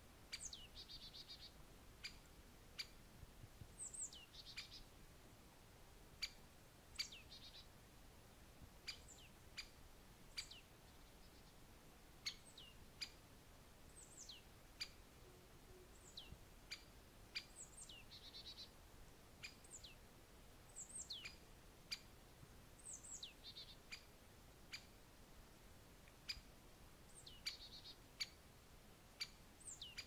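Small birds calling faintly: short high-pitched calls that slide downward, some followed by a brief buzzy trill, repeated every second or two, with sharp ticks in between.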